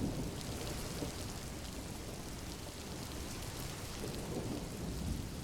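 Recorded thunderstorm ambience: steady rain with a low rumble of thunder.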